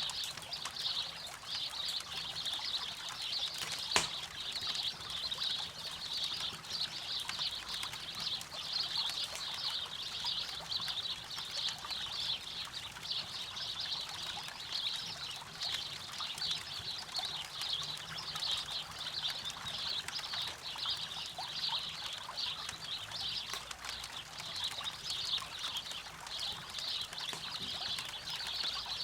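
Campfire by a river: a steady rush of flowing water with the fire's small crackles scattered throughout, a dense high-pitched chattering layer over it, and one sharp loud pop about four seconds in.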